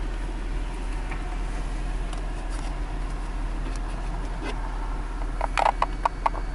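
Chevrolet Suburban idling, heard from inside the cabin as a steady low hum, with a quick run of about six short clicks near the end.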